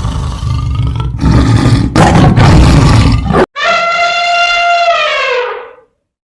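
A big cat's loud, rough roar for about three and a half seconds. It cuts off abruptly, and after a short gap a clear, horn-like pitched call is held for about two seconds, sliding down in pitch as it fades.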